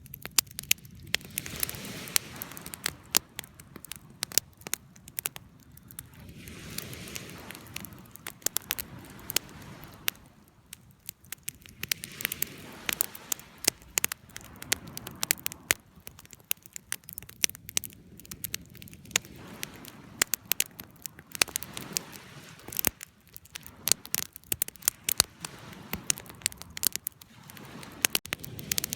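Campfire crackling, with frequent sharp pops and snaps over a soft rush of flame that swells and fades every few seconds.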